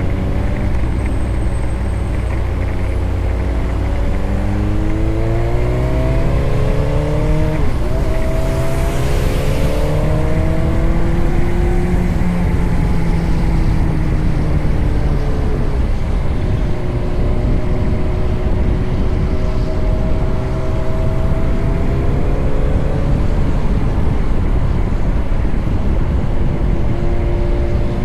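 Motorcycle engine running under way. Its pitch climbs over the first several seconds, drops sharply about eight seconds in as it shifts up, climbs again, then settles to a fairly even pitch. A heavy low rumble runs under it throughout.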